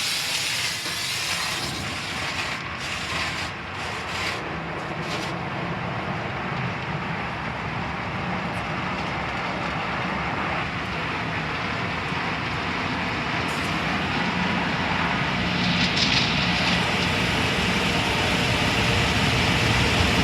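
Automatic drive-through car wash running: a steady rush of spraying water and machinery, with a few short hisses in the first seconds, growing gradually louder toward the end.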